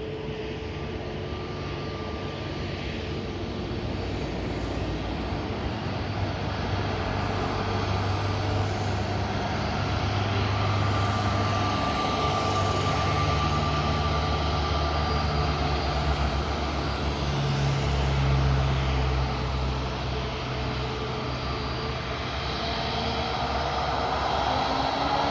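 Airbus A321neo jet engines running: a continuous rumble and whine with a few held tones, slowly growing louder, with a tone sweeping upward near the end.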